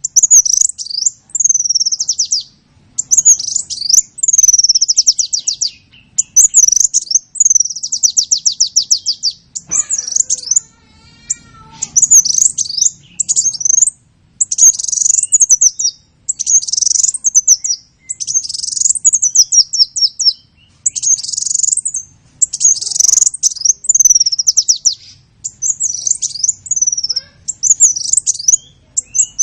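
A songbird singing close by in long, loud, high-pitched phrases of rapid repeated chirps and trilled notes, with short pauses between phrases.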